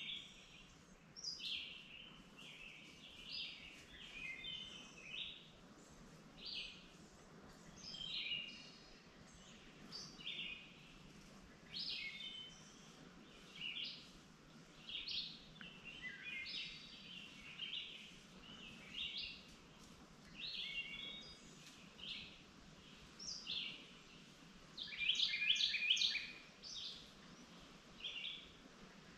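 Songbirds singing in the woods: short chirping phrases repeat every second or two, with a louder, busier run of song near the end, over a faint steady background hum.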